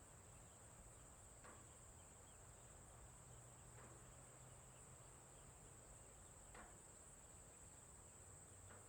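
Faint, steady, high-pitched chirring of crickets in a rural ambience, with faint short sounds every two to three seconds.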